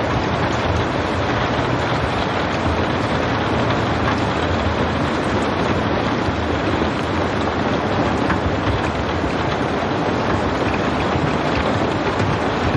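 Steady rain falling heavily, an even dense hiss of drops with no thunder.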